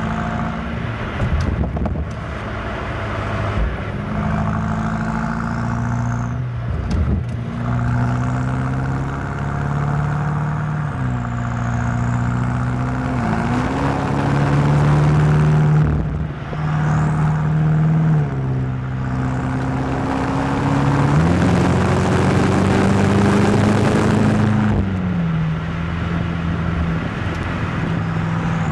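BMW M8 Competition's twin-turbo V8 running under way, its note holding steady and then jumping in pitch again and again as the automatic gearbox shifts. It builds twice under acceleration, around the middle and again near the end, with a rushing hiss rising along with it.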